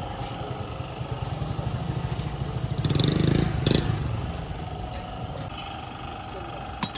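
A vehicle engine running, swelling louder about three seconds in and then easing off, with two sharp clicks near the end.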